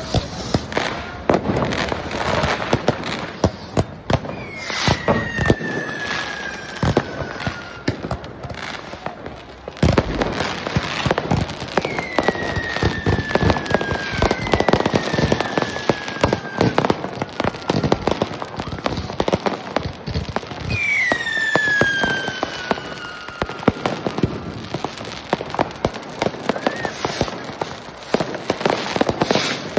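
Fireworks and firecrackers going off all around: continuous bangs and crackling, with several whistles falling in pitch, the loudest about two-thirds of the way through.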